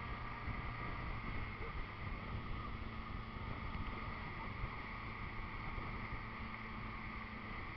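Motorboat engine running steadily while under way, over a constant rush of water and wind.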